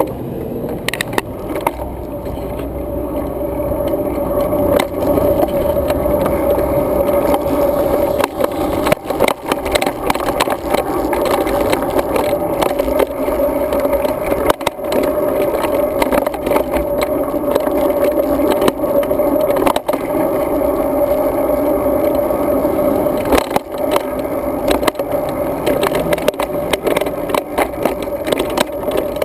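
Road bike riding heard through a GoPro camera's housing: a steady muffled rolling hum with frequent rattles and knocks from bumps in the path, building up over the first few seconds as the bike gathers speed.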